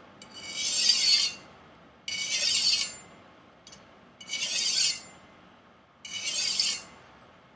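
Chinese chef knife's steel blade drawn across a whetstone in four slow, even sharpening strokes about two seconds apart, each a gritty rasping hiss. These are angled edge strokes to work out rolls along the edge.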